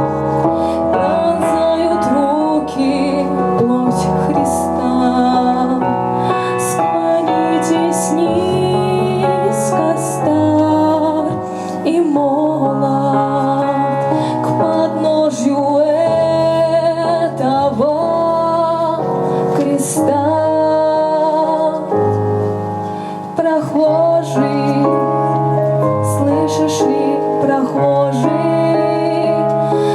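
A woman singing a Christian song with keyboard accompaniment, her held notes wavering with vibrato.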